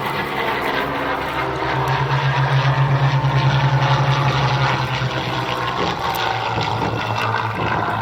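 Piston-engined propeller aircraft flying past, a steady engine drone with a pulsing beat that swells about two seconds in and eases off in the second half.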